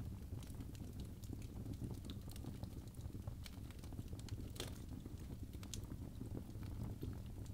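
Birch logs burning in a fireplace: a steady low rumble of flames with irregular sharp crackles and pops, a few louder pops in the middle.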